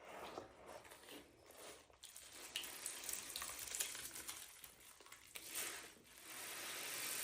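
Cleaning noises: fairly faint, uneven swishing strokes with small clicks, like scrubbing or wiping with water.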